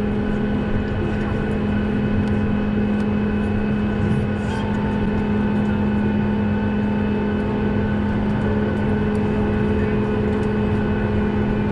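Steady drone inside a Boeing 737 airliner cabin: a strong low hum with several steady whining tones above it. A further mid-pitched tone joins about four and a half seconds in.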